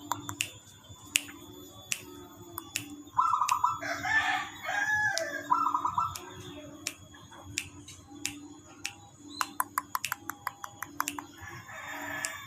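Zebra dove (perkutut) cooing in short trilled notes, about three seconds in and again before six seconds. Between them a rooster crows for about a second, and sharp clicks recur throughout.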